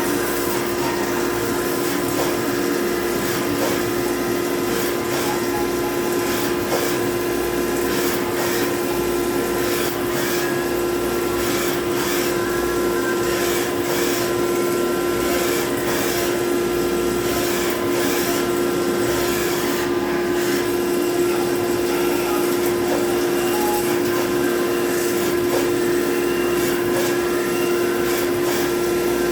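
CNC machining centre (MCT) drilling: a steady machine drone with one constant pitched tone over a noise haze, unchanging throughout.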